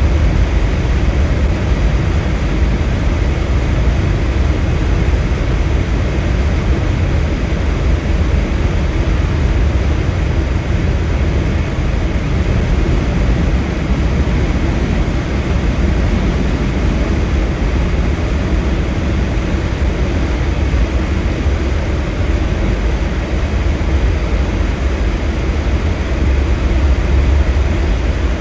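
Steady, loud rumble of a vehicle driving, heard from inside the cabin, with deep low-pitched road and wind noise that barely changes.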